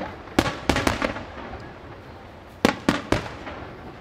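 Display fireworks bursting: three sharp bangs in quick succession near the start, a lull of crackle and rumble, then three more bangs near the end.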